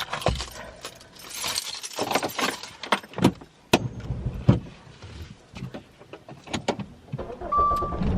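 Keys jangling, with scattered sharp clicks and knocks of handling, and a short steady beep near the end.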